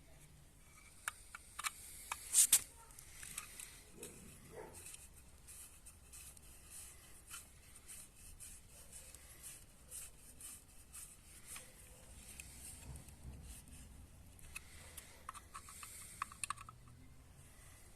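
Small metal parts and hand tools being handled during assembly: scattered light clicks and brief scraping and rubbing, with a sharper cluster of clicks about two and a half seconds in and a quick run of small ringing metal clicks near the end.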